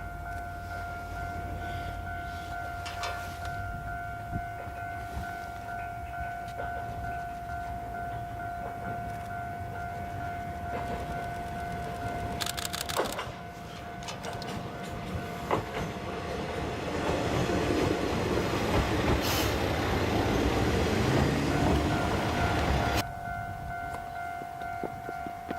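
Vintage diesel railcar passing, its engine and running noise building to a peak and then cutting off abruptly near the end, over a steady ringing tone.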